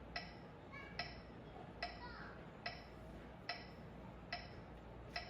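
A metronome ticking steadily, seven even ticks a little under a second apart, keeping the beat for piano practice.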